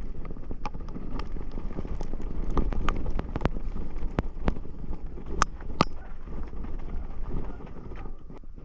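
Wind rumbling on the microphone, with irregular sharp clicks and knocks scattered throughout, the loudest a little past halfway.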